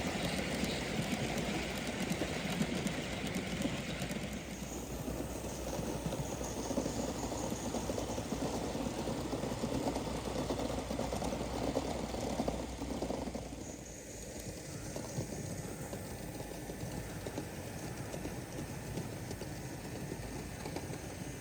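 Gauge 1 live-steam model locomotive running, a rapid steam exhaust beat with wheel clatter; it drops away about fourteen seconds in, leaving a quieter steady hiss.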